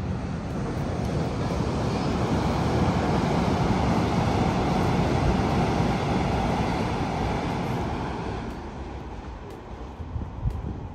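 A train passing over a railway bridge: a steady rushing rumble that swells, holds for several seconds and fades away, with a single knock near the end.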